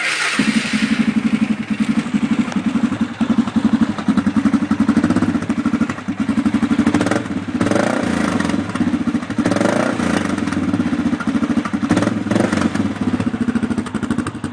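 Arctic Cat 650 H1 ATV's single-cylinder four-stroke engine starting and running loud through a de-baffled muffler with a 2-inch turn-down outlet pipe. The throttle is blipped several times in the second half.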